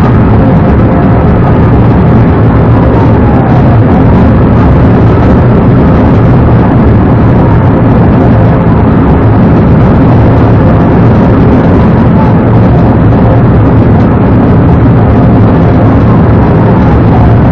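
Police patrol car's engine and road noise at highway speed, loud and steady.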